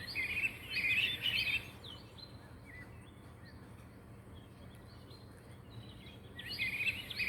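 Small pet birds chirping: a cluster of quick, high chirps in the first second and a half, a few scattered single chirps, then another cluster near the end.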